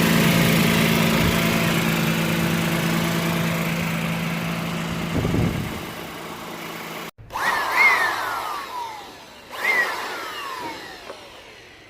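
A 2009 Land Cruiser's 1GR-FE V6 idling steadily with a leaking exhaust, then shutting off about five and a half seconds in. After a short break, two brief sounds follow, each with a whistle that falls in pitch.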